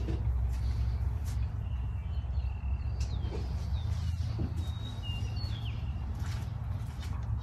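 Small birds chirping several times, short whistled notes and glides, over a steady low rumble, with a few light knocks.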